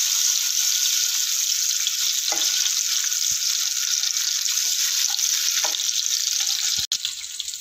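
Whole boiled eggs sizzling in hot oil in a non-stick pan as they are lightly browned: a steady sizzle, with the wooden spatula scraping the pan and nudging the eggs a few times. Near the end the sizzle suddenly drops to a quieter level.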